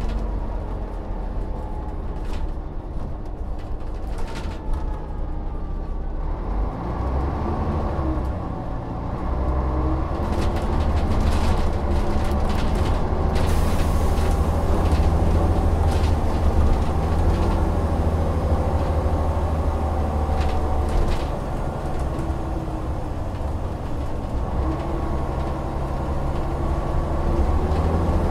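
Volvo Olympian double-decker bus's diesel engine, quieter at first, then rising in pitch as the bus pulls away about six seconds in and running louder and steadily under way, with occasional short rattles.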